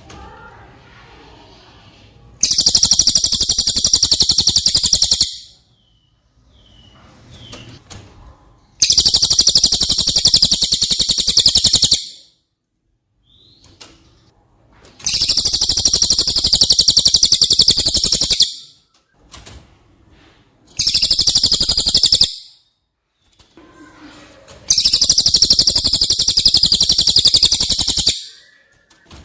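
Cililin bird singing: five long bursts of very rapid, high-pitched trilling, each lasting two to four seconds, with short pauses between them.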